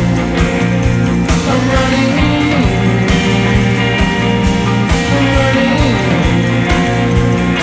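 Rock band playing a studio-recorded song: electric guitar with sliding notes over bass and a steady drum beat.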